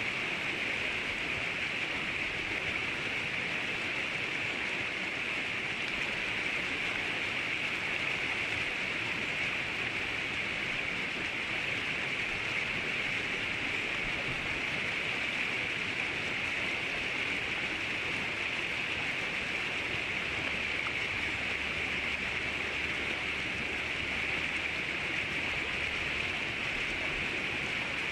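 River water flowing in a steady, even rush, with no clear birdsong standing out.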